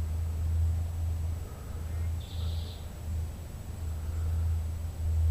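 A songbird calls once with a short trill about two seconds in, over a steady low rumble.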